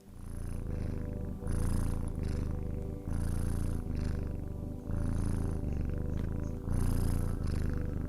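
Domestic cat purring close up, a steady low rumble that swells and eases with each breath, about one in-and-out cycle every one and a half to two seconds. It fades in at the start.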